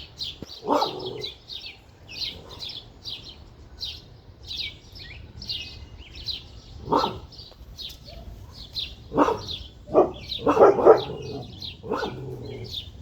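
A dog barking in short single barks, once about a second in, then again later with a quick run of barks near the end. Small birds chirp steadily underneath.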